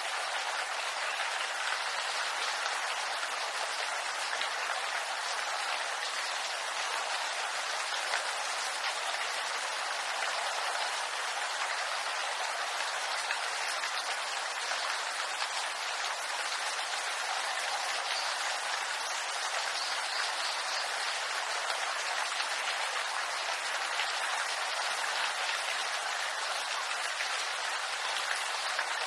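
Steady rain falling on bamboo leaves, a dense, even patter that does not let up.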